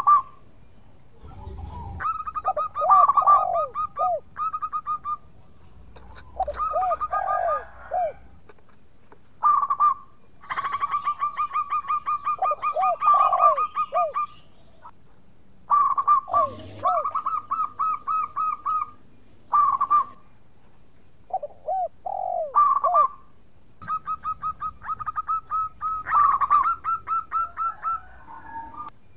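Zebra dove (perkutut) singing: repeated phrases of rapid stuttering notes mixed with lower, curving coos, broken by short pauses.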